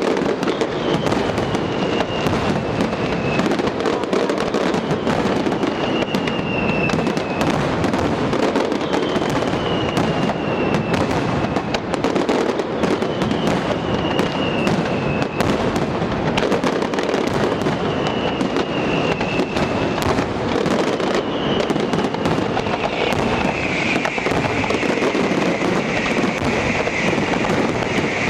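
Aerial fireworks display going off in a dense, unbroken barrage of bangs and crackling. A falling whistle sounds about every three to four seconds, and near the end it spreads into a broader hissing.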